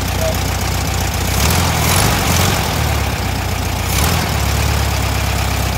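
Volkswagen Thing's air-cooled flat-four engine idling, its speed shifting about a second and a half in and again around four seconds as it settles to a new idle speed.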